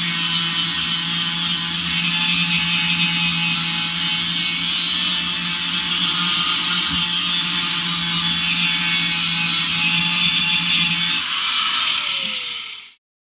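Handheld electric power tool grinding steel continuously. Near the end it is released and its motor winds down with a falling pitch.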